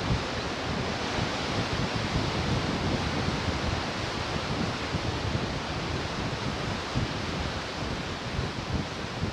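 Ocean surf washing steadily on the shore, with wind buffeting the microphone in a low, fluttering rumble.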